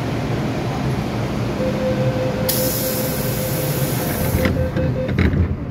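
Cab-interior running noise of an MTR M-Train electric multiple unit, with a steady whine, and about two and a half seconds in a two-second burst of high air hiss. A couple of clicks follow and the running noise drops a little near the end.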